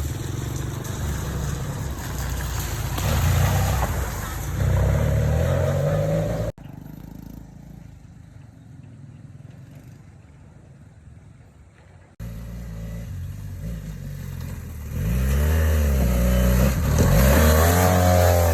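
Motorbike engines running on the move, the pitch rising and falling as the riders rev and change gear. It is loudest near the end, with a quieter stretch in the middle between two sudden cuts.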